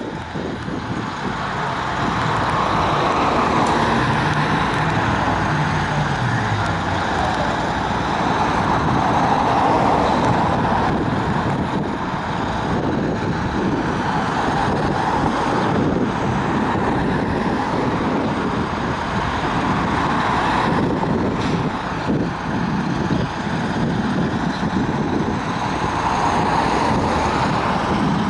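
Fire truck and street traffic running past, a steady wash of engine and road noise that swells and fades every few seconds.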